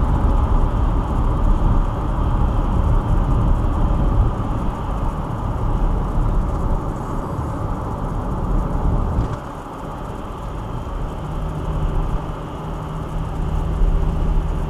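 Road and tyre noise inside a car driving in the rain, as picked up by a dashcam's microphone. The noise drops about nine seconds in, and a low steady hum follows.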